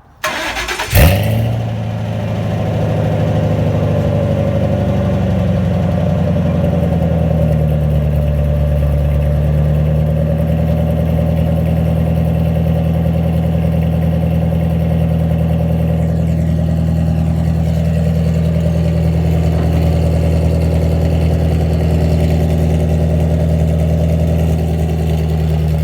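Ford 5.4-litre V8 engine starting: a brief crank, then a loud flare about a second in as it catches, settling over the next few seconds into a steady idle. It runs through an exhaust with the catalytic converters and muffler deleted.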